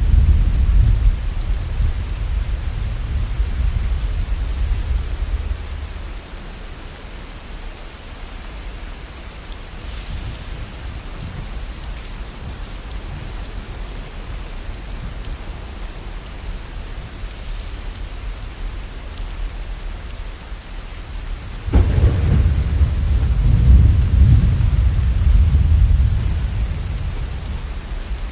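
Heavy rain falling steadily in a thunderstorm. A deep roll of thunder fades out over the first few seconds. Near the end a sudden clap of thunder breaks into a long rumble that slowly dies away.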